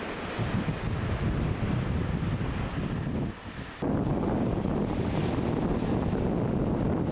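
Wind buffeting the microphone over the rush of sea waves, dropping away briefly a little over three seconds in before coming back just as strong.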